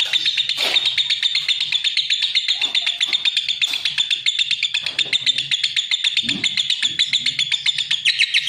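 Lovebird singing: a fast, unbroken run of sharp, high chirps, several a second, kept up throughout.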